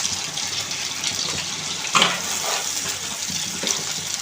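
Chopped onions sizzling and crackling as they fry in hot oil, with a utensil knocking against the pan once about two seconds in.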